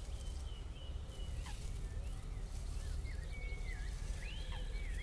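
A songbird singing thin, high whistled phrases with gliding and looping notes, over a steady low outdoor rumble.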